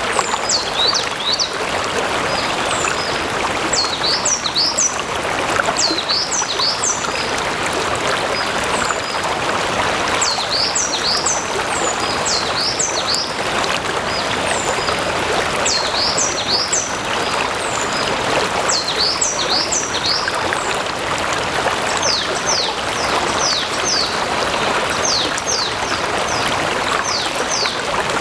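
Stream water flowing and splashing steadily. Over it, a small bird repeats high, quickly falling chirps in clusters of two or three every second or two.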